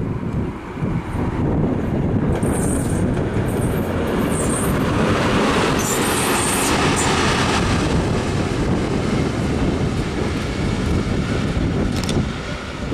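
Freight train passing close by, its wheels and wagons rumbling steadily. Brief high wheel squeals come through in the first half.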